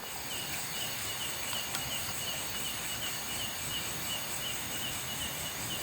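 Night insects: a short, high chirp repeating evenly about three times a second over a steady, high-pitched insect drone.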